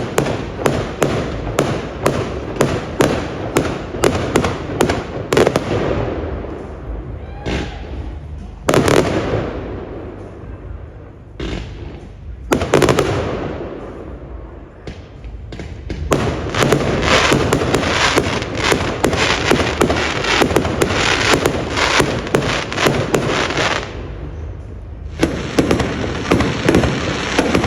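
Fireworks display: quick volleys of sharp cracks and bangs, with single louder bangs at about 9 and 12 seconds in, then a long dense run of crackling from about 16 to 24 seconds in.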